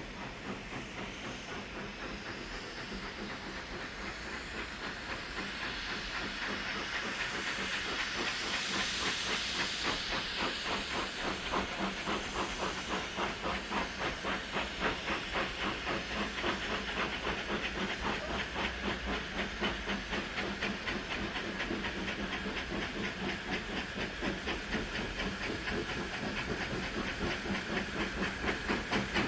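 Steam locomotive hissing steam with a fast, even rhythmic beat that grows louder, and a stronger burst of hiss about eight to ten seconds in.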